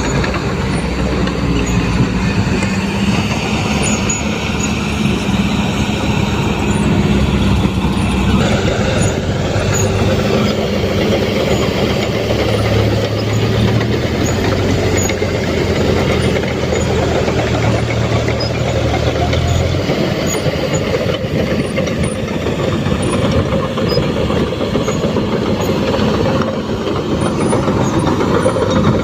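Diesel engine of a fully loaded Fuso dump truck running steadily under load, its note shifting lower about eight seconds in and changing again near twenty seconds.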